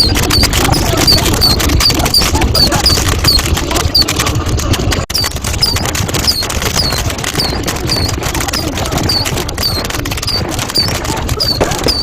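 Fireworks crackling and popping in a dense stream over a low rumble, with a short high chirp recurring about twice a second. The sound drops out briefly about five seconds in.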